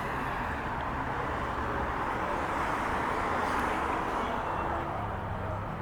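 Road traffic noise, swelling in the middle and easing off as a vehicle passes.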